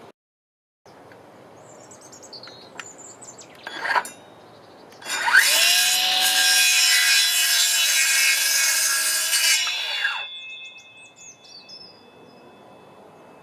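Power saw cutting timber for about five seconds: it spins up, runs steadily through the cut, then winds down. A sharp knock comes just before it, and small birds chirp faintly around it.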